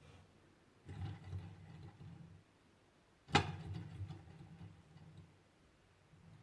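Small hand-made Stirling engine rattling in low, fluttering stretches, with one sharp click about three seconds in.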